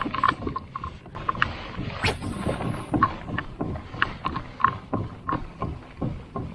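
Irregular light clicks and knocks from handling fishing gear aboard a plastic pedal kayak, with a brief high hiss about two seconds in.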